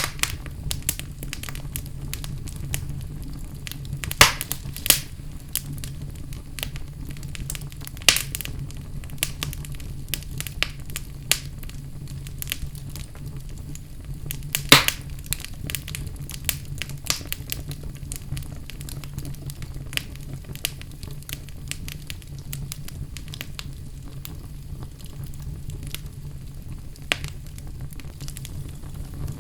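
Wood fire burning in a fireplace: a steady low rumble of flames with irregular crackles and sharp pops, the loudest about 4, 8 and 15 seconds in.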